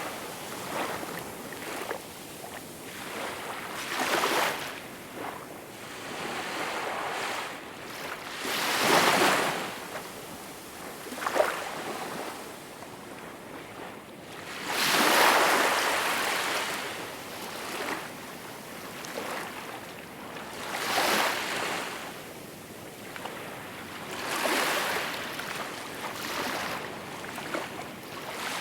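Small waves washing in, each one a swell of rushing water noise, coming about every four to six seconds with quieter wash between.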